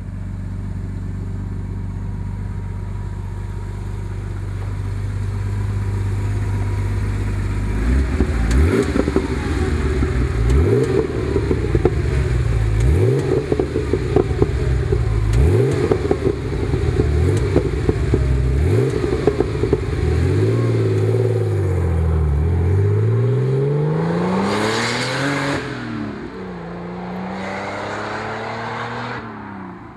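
Porsche 930 Turbo's air-cooled turbocharged flat-six, breathing through a dual-outlet Maxflo stainless-steel muffler, idling steadily and then revved in a string of quick blips. After these come slower rises and falls in revs, one peak bringing a burst of hiss, and the engine sound stops near the end.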